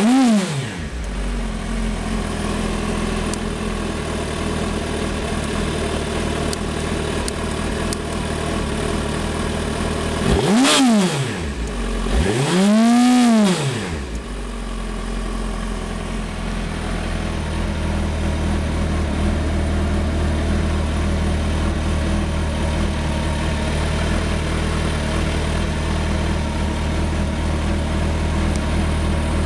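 2008 Suzuki Hayabusa GSX1300R's inline-four engine idling, with the revs dropping back just as it begins. It is blipped twice on the throttle, about eleven and thirteen seconds in, the second rev held a little longer, each time falling back to a steady idle.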